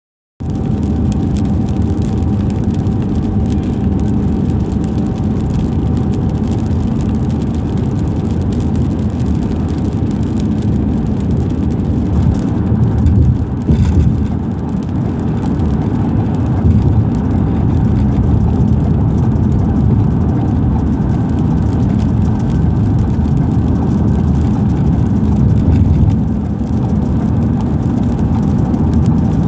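A car driving on a highway in the rain: steady, loud road and engine noise, with rain.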